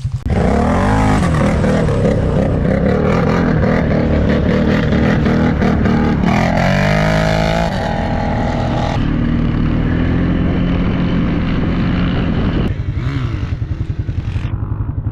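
Off-road vehicle engine revving hard and close to the microphone, its pitch rising and falling repeatedly.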